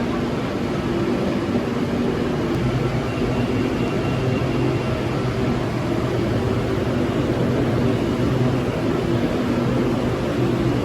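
Steady hum and rush of a BTS Skytrain electric train, a low mechanical drone with a few steady tones and no sudden events.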